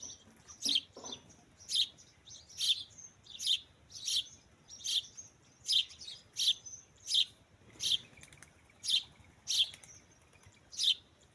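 A bird chirping over and over, short high chirps repeated at a steady pace of a little more than one a second.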